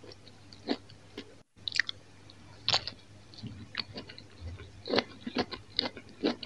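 Close-miked chewing of crisp rusk-style Roumi cheese bread: scattered short crunches and wet mouth clicks, with a brief silent break about one and a half seconds in.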